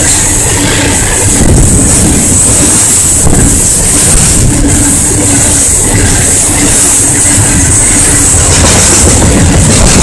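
Freight train of open-top hopper cars on a rock train passing at close range: a loud, steady rumble and clatter of steel wheels on the rails, with a thin high whine running through it.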